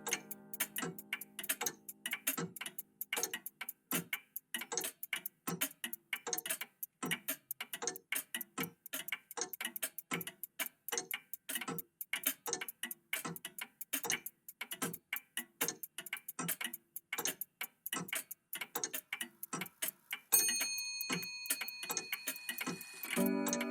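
Several old mechanical clocks ticking together, their ticks falling out of step with one another. About twenty seconds in a clock chime strikes and rings on, and just before the end a lower musical tone joins it.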